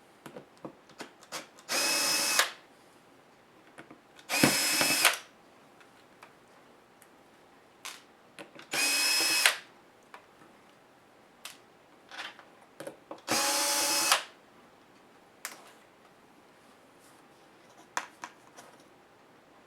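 Small electric screwdriver running in four short bursts, each under a second, as it spins out tiny screws during laptop disassembly. Light clicks of screws and plastic parts being handled fall between the bursts.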